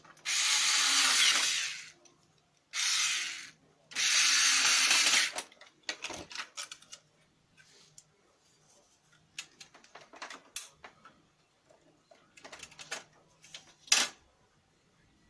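Lexmark X364dn laser printer's mechanism running in three short bursts of harsh, grinding noise, each a second or so long, followed by scattered clicks and rattles and one sharp loud click near the end.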